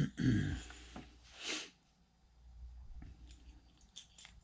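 Handling noises as a mini bike's throttle cable is pulled out: a short low sound at the start, a brief hiss about a second and a half in, then a few light clicks near the end.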